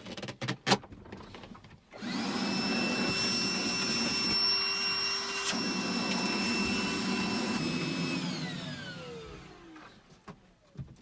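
A few knocks, then a vacuum cleaner switches on about two seconds in and runs steadily with a high whine. It is switched off after about six seconds, and the motor winds down with a falling pitch.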